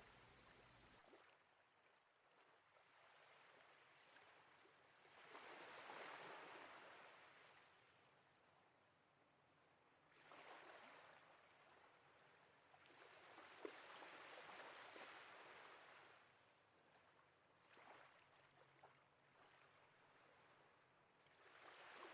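Faint small waves washing against a rocky harbour wall, each wash swelling and fading every few seconds, with near silence between.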